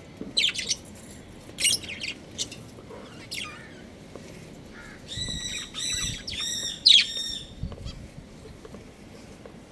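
Budgerigars chirping: several quick, sharp chirps in the first few seconds, then a run of about five warbling calls from about five seconds in, ending with the loudest chirp near seven seconds.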